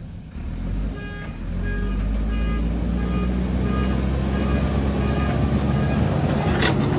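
JCB 3DX backhoe loader's diesel engine running steadily under work, with a few sharp metallic clatters near the end.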